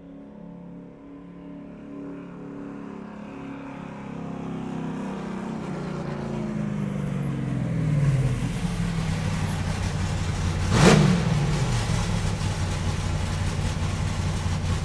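A car engine drawing closer and getting steadily louder, its pitch sliding down at around six to eight seconds, then a short loud rush about eleven seconds in as it goes by, followed by steady loud running.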